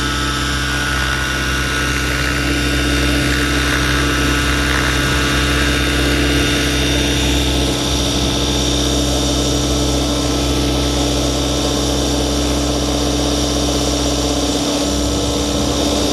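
Electric RC scale helicopter on Align T-Rex 550E mechanics stretched to 600 size, running in flight. Its motor whine and rotor hum stay steady at a constant head speed.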